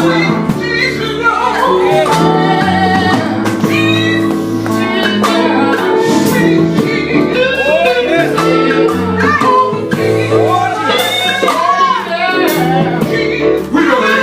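Gospel group singing with instrumental backing: sung melody lines over steady bass notes and drum hits.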